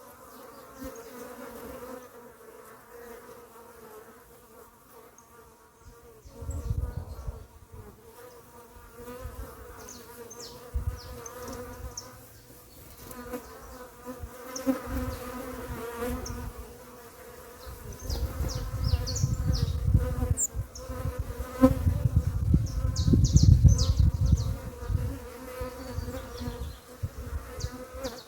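Bees buzzing steadily around papaya fruit, with short high bird chirps now and then. Low rumbles come and go, loudest about two-thirds of the way in.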